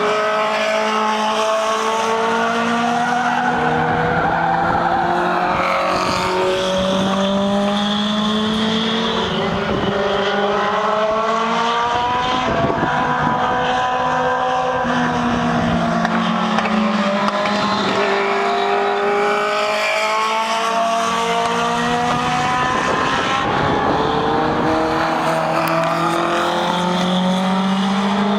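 Legend race cars' motorcycle-derived engines revving up and down in repeating rises and falls as they lap a short oval, several cars heard at once.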